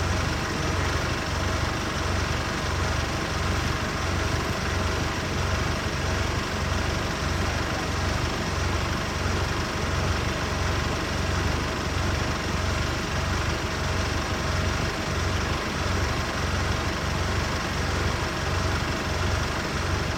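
Safari game-drive vehicle's engine idling steadily, a low even throb.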